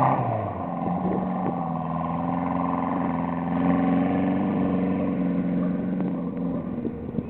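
Fiat 600's small rear-mounted four-cylinder engine running hard as the car spins its wheels in mud, its pitch rising slightly midway, then fading near the end as the car pulls away.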